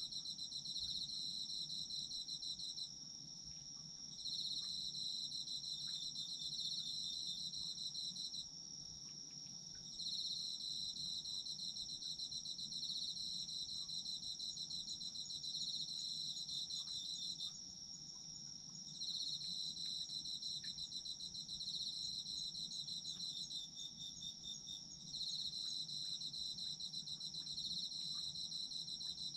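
Autumn insects singing at night: one holds a steady high trill without a break, while another sings a pulsing trill in long phrases of several seconds, each broken by a pause of a second or so.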